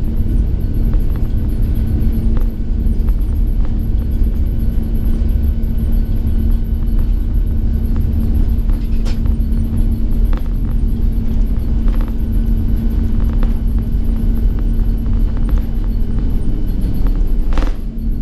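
Loud, steady rumble inside the cabin of an Airbus A330-900neo airliner, from its Rolls-Royce Trent 7000 engines and the airframe, with a constant low hum. A few light clicks or rattles come through, the strongest near the end.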